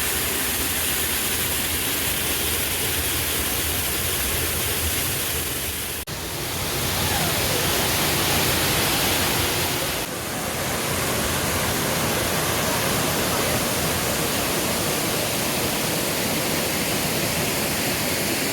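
A waterfall rushing: a steady, loud roar of falling water. The roar dips briefly twice, about six and ten seconds in.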